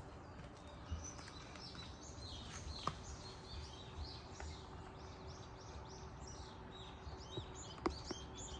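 Small birds chirping and twittering in quick runs of short high notes, several overlapping, with two sharp clicks standing out. A faint steady hum runs underneath.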